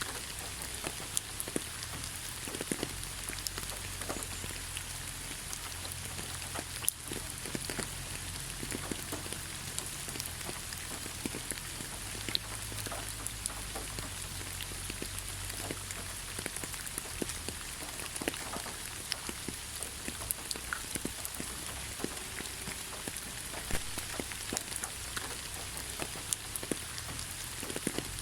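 Steady rain falling on a surface: a constant hiss with many separate drops ticking through it.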